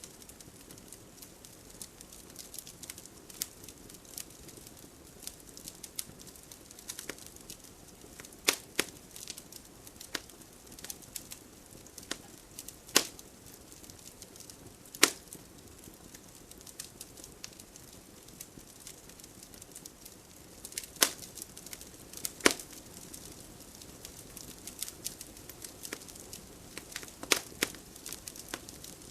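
Fire crackling in a fireplace: irregular sharp pops and snaps over a soft steady hiss, with a few louder pops scattered through.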